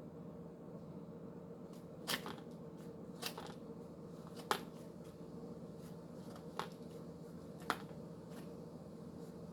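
Five or so short, sharp clicks at irregular intervals over a steady low hum.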